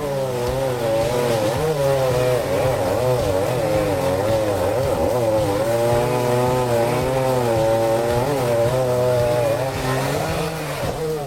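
Chainsaw running at high revs, cutting through wood, its engine pitch wavering up and down as it works under load.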